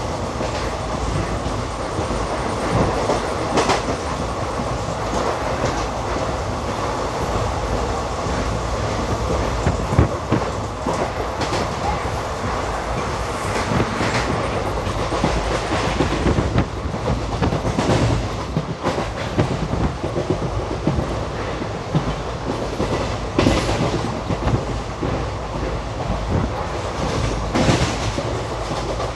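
Express train running at speed, heard from on board: a steady rumble and rattle of the coaches with the clickety-clack of wheels over rail joints, and a louder clack every few seconds.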